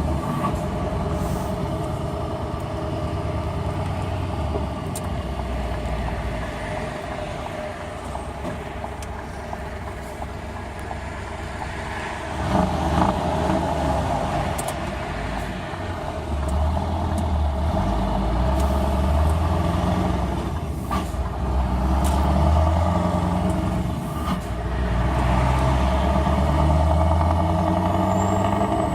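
Scania R500 V8 truck engine with open exhaust pipes running with a deep rumble. The revs and loudness rise and fall, swelling about twelve seconds in and staying louder through most of the second half.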